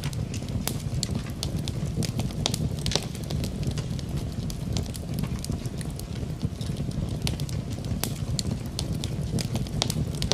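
Wood fire in a fireplace crackling, with frequent irregular sharp pops over a steady low rush of rain.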